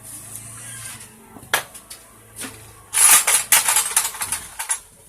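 Metal tools and engine parts clinking and clattering: a few separate clicks, then a quick loud run of clinks about three seconds in that lasts under two seconds.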